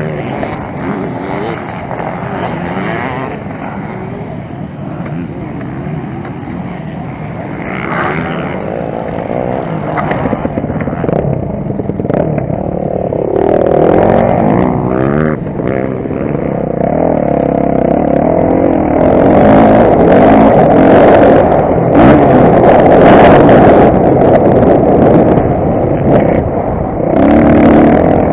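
Motocross bike engine revving up and easing off again and again, with knocks and rattles over it; it gets louder in the second half.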